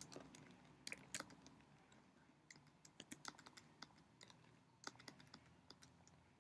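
Faint computer keyboard keystrokes: scattered, irregular clicks in small clusters with short pauses between.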